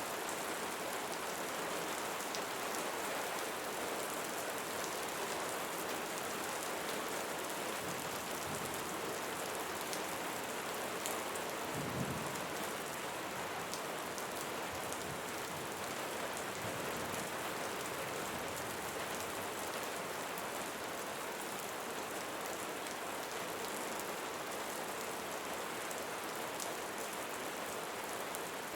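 Steady rain falling on a surface, an even hiss flecked with the ticks of single drops, with one brief low thump about twelve seconds in.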